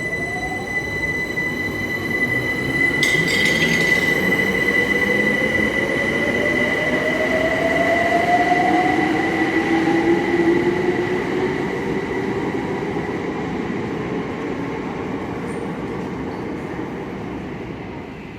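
Electric train pulling away: its traction motors whine upward in pitch as it accelerates over several seconds, over a steady high squeal and rumble. There is a brief clatter about three seconds in. The sound swells, then fades as the train leaves.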